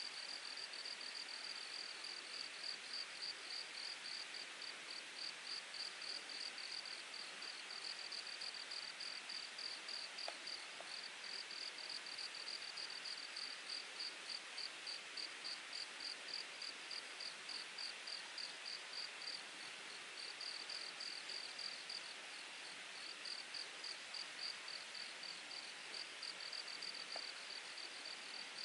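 An insect in the grass chirping in a steady, even pulse of high chirps, pausing briefly twice, over the continuous rushing of a mountain stream.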